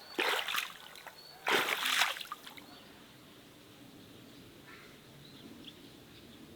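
Water splashing in two short bursts, then a quiet outdoor background with a few faint bird chirps.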